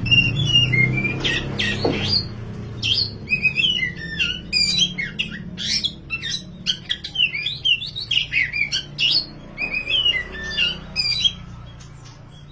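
Oriental magpie-robin (kacer) singing a fast, varied string of whistled and chattering phrases, stopping about a second before the end.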